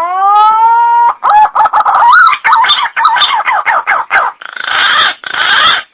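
Green pigeon (punai) calling: a rising whistled note, then a quick run of warbling notes sliding up and down, ending in three rougher, noisier notes of about half a second each.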